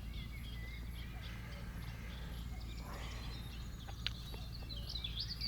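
Songbirds singing: scattered short chirps and warbles that grow busier near the end, over a steady low rumble. A single faint click about four seconds in.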